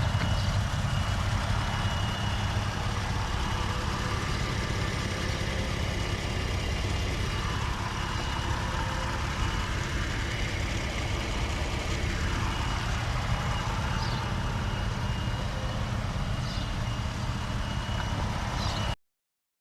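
2021 Ford F-150's 3.5 EcoBoost twin-turbo V6 idling steadily in its first minute after a cold start. The sound cuts off abruptly near the end.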